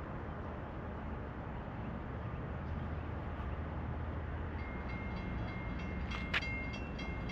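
Distant rumble of an approaching Norfolk Southern train, steady and low. About two-thirds of the way in a high steady tone joins it, and there is one sharp click near the end.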